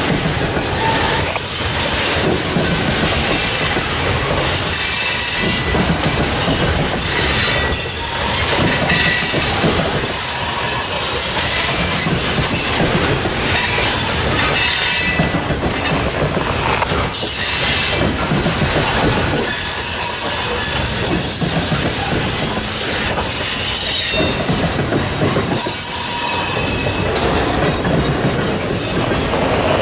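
Railroad freight cars rolling past, with continuous clatter and intermittent high-pitched wheel squeal that comes and goes.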